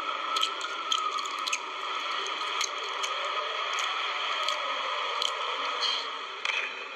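Small birds giving short, sharp chirps, scattered irregularly over a steady hiss-like background noise.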